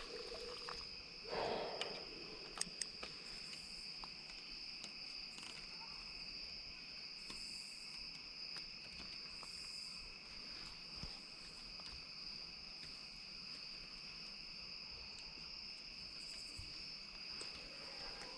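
Steady chorus of evening insects trilling at a constant high pitch, with a brief rustle about a second and a half in.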